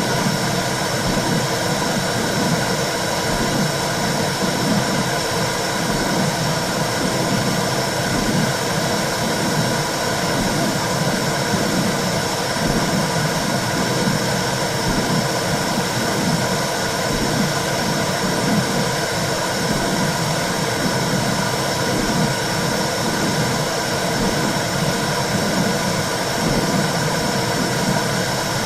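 Womb-sound track for soothing a baby: a steady whooshing hiss with a low pulsing that repeats evenly beneath it.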